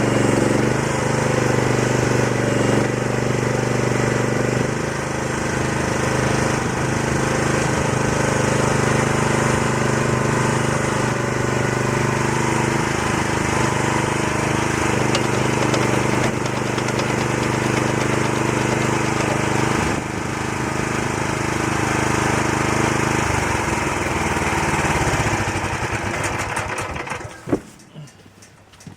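Excavator engine running steadily under work, its pitch shifting a few times, then dropping away sharply near the end.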